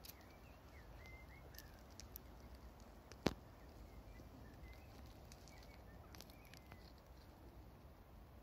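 Faint outdoor garden ambience with distant small birds chirping in short, scattered calls. A single sharp click about three seconds in.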